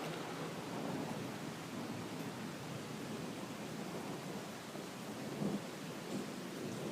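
Thunder rumbling, low and uneven, over steady rain.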